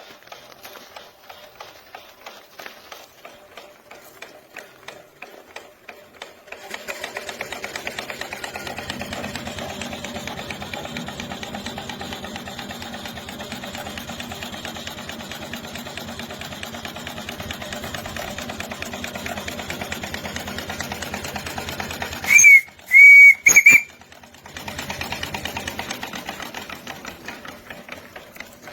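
Steam engine of a steam-powered motorcycle, chuffing slowly and regularly at first, then running fast with a dense, rapid beat. Near the end a steam whistle sounds in three short, loud blasts, after which the engine runs briefly again and slows.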